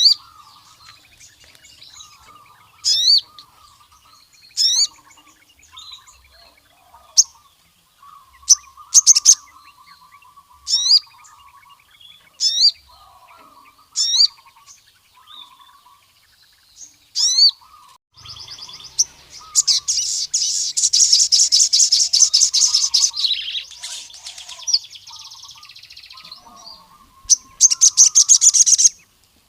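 Male brown-throated sunbird (sogon) singing. Sharp, quickly rising high notes come every second or two over soft twittering. A long, fast, buzzy trill follows from about two-thirds of the way in, and a shorter trill comes near the end.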